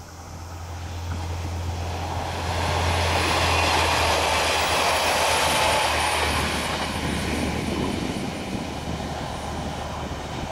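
A train passing by: its running noise swells over a couple of seconds, is loudest from about three to six seconds in, then slowly fades.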